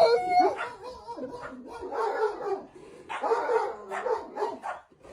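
A dog giving a run of pitched barks and yowls in about four bouts, with short pauses between them.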